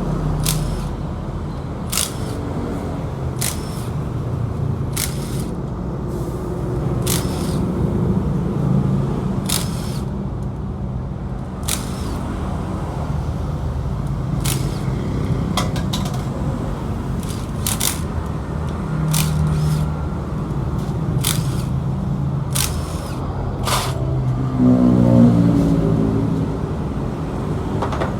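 Yamaha Exciter 135's single-cylinder four-stroke engine running steadily, with a sharp click or knock repeating about every second and a half over it, and a brief rise in revs near the end.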